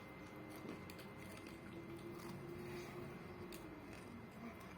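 Faint biting and chewing of a crispy broasted chicken burger, with a few small crunches and a faint steady hum through the middle.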